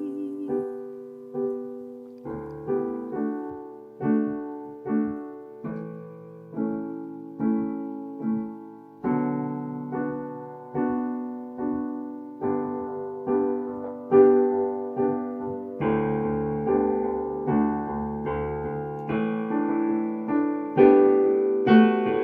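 Piano playing an instrumental interlude of a worship song: slow struck chords, each dying away, that grow fuller and louder through the second half.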